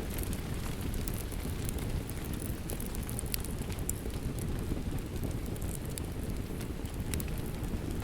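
Fireplace crackling, with scattered sharp pops, over a steady hiss of rain and a low rumble.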